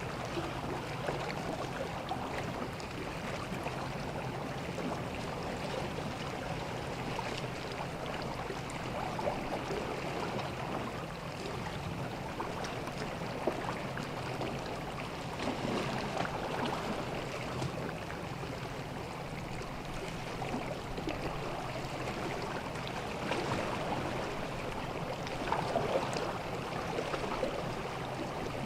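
Small sea waves washing and lapping on a beach, a steady wash that swells a little every several seconds.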